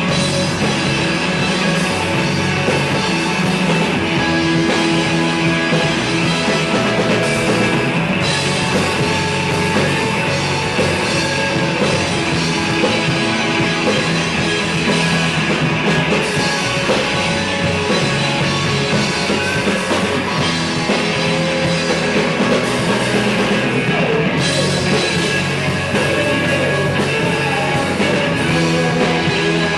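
Rock band playing live: a full band with drum kit, loud and steady.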